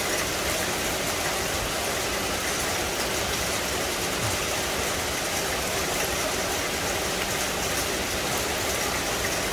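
Steady rain falling in a forest: a constant, even hiss with no break or change.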